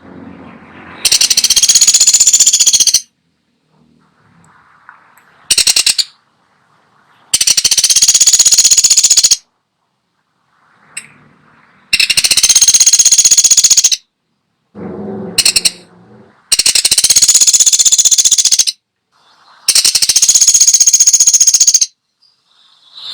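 A woodpecker (pelatuk sampit) calling: loud, high-pitched, rapid rattling trills about two seconds long, repeated five times with one short burst between, separated by brief pauses.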